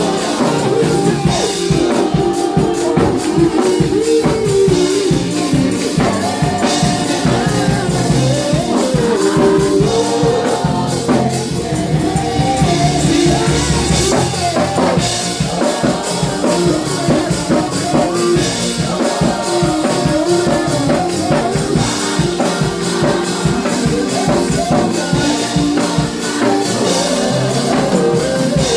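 Live gospel praise-and-worship music: singing over a band with drum kit and tambourine, playing at a steady beat.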